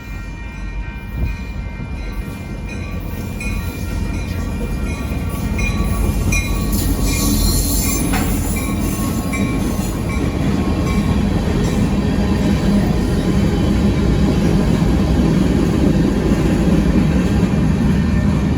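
Train approaching and passing a railroad grade crossing, its low rumble growing steadily louder. A crossing bell rings over it in an even repeating ding, about two strikes a second, through the first half.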